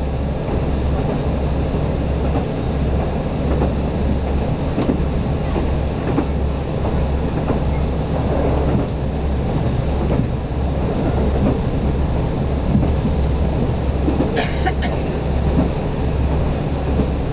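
Steady low rumble of a KiHa 185 diesel railcar running along the line, heard from inside the passenger cabin. A short clatter comes near the end.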